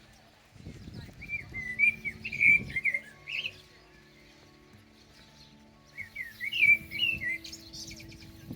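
A songbird singing two phrases of quick, warbling notes, a few seconds apart, over soft sustained background music.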